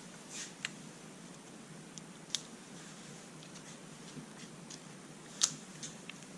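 Faint handling noise of small parts on a workbench: a few scattered small clicks and taps, with one sharper click about five and a half seconds in.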